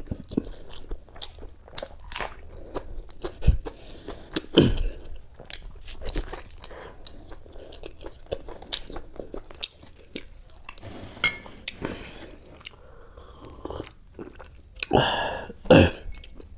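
Close-miked chewing and biting of mutton and rice, with many short wet mouth clicks and smacks. There are a few louder mouth sounds, one about four and a half seconds in and the loudest near the end.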